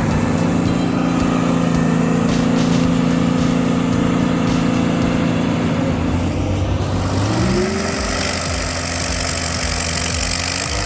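A heavy machine's engine runs steadily, then revs up about two-thirds of the way in and holds at the higher speed. A high hiss comes in as it revs.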